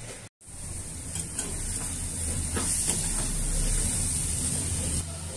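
Egg and tomato sizzling in a hot steel pan as a spatula stirs and scrapes through it, the sizzle growing louder toward the middle, with a moment of dead silence just after the start.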